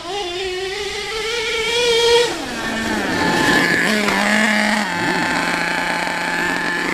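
HPI Savage SS nitro RC truck's small glow engine revving up for about two seconds, then dropping back and holding a steady, lower note.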